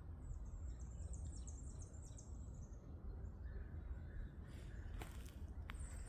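A small songbird singing a rapid run of very high, thin notes for about two and a half seconds, over a low steady rumble. A few sharp clicks come near the end.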